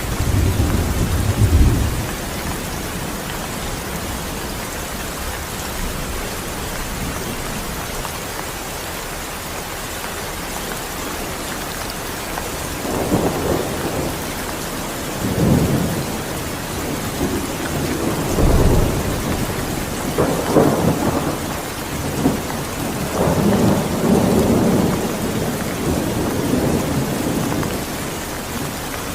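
Steady rain falling, with thunder: a low rumble about a second in, then several rolling peals of thunder through the second half.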